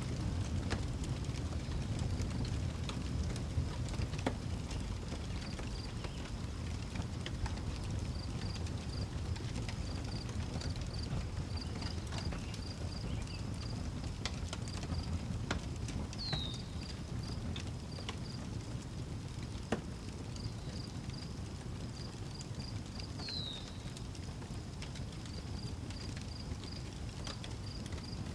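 Outdoor wood fire crackling, with scattered sharp pops over a steady low rumble. Crickets chirp in a steady high pulsing series, and a bird gives a short descending whistle twice, about 16 and 23 seconds in.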